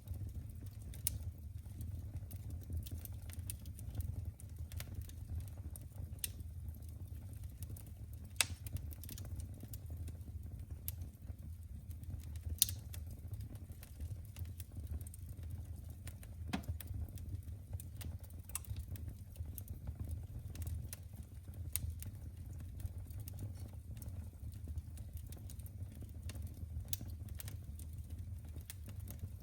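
Wood fire burning in a fireplace, crackling with irregular small pops over a steady low rumble, with a few sharper snaps along the way.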